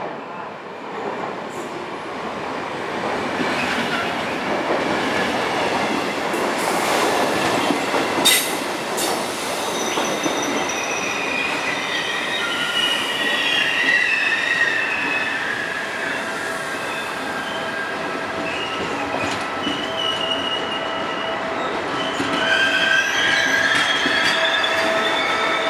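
Electric regional passenger train running into the station along the platform. A rush of wheels on rails builds up first, then high, wavering squeals come and go as the train slows, strongest again near the end.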